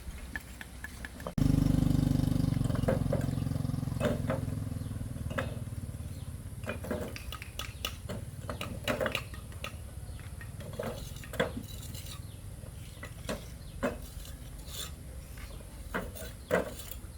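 A low rumble starts suddenly about a second in and slowly fades, with scattered sharp clicks and knocks of hard objects over it.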